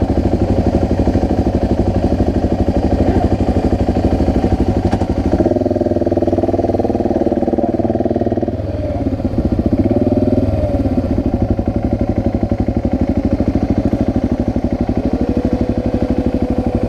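Motorcycle engine running under way, a fast steady beat with a change in engine note about five and a half seconds in; a steady higher tone joins about fifteen seconds in.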